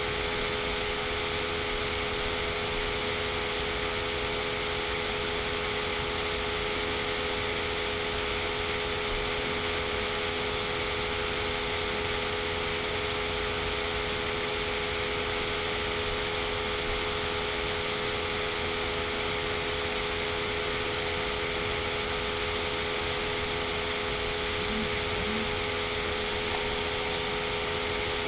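Steady fan-like whirring hiss with a constant hum, unchanging throughout.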